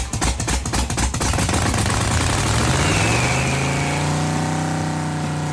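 Freshly built Holden 308 V8 being started for its cam break-in: it cranks and fires, catches about a second and a half in, and climbs to a steady fast idle. A brief high squeal comes near the middle as the revs rise.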